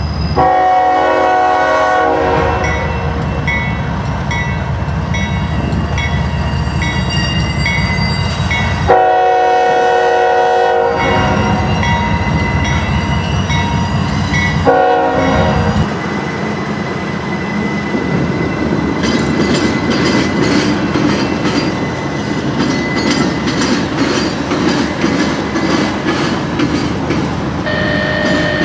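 Diesel locomotive horn on a CSX or Norfolk Southern freight train, sounding three blasts (two long, then one short) over a steady locomotive engine rumble. After the horn, the train rolls past, its wheels clicking steadily over the rail joints.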